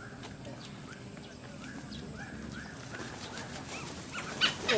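Wild birds calling in a flock, a run of short arched chirps about twice a second, with a few sharp clicks near the end.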